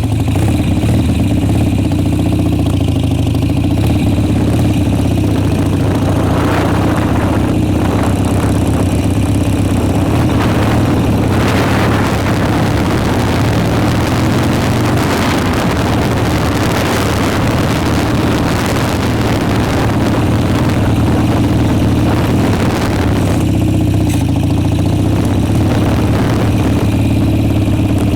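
Motorcycle engine running steadily, with a rougher, noisier stretch in the middle.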